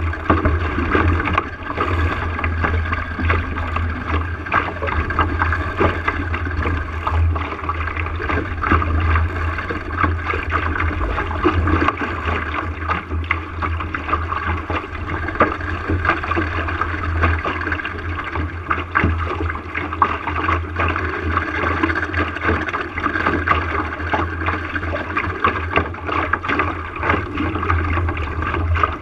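Water gurgling and splashing along the hull of a small sailboat under way, with steady wind rumble on the camera microphone.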